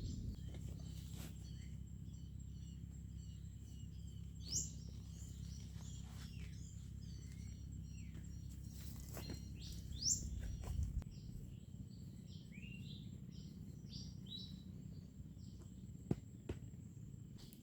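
Birds chirping on and off in the background over a steady low rumble, with a few brief knocks and rustles of camp gear being handled during packing up.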